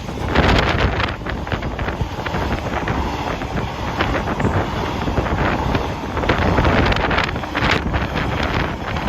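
A freight train passing, its wagons clattering and rattling in many short knocks over a steady rumble, with wind buffeting the microphone.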